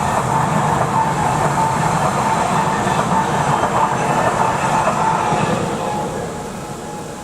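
A train passing close by on the Lötschberg mountain line, a steady rumble of wheels on rail with a thin high tone running through it, then fading away over the last couple of seconds.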